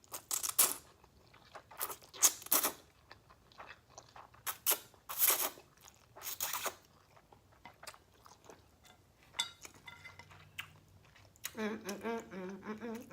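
Close-miked eating of spicy instant ramen noodles: several loud slurps and wet chewing sounds over the first seven seconds, then softer mouth clicks.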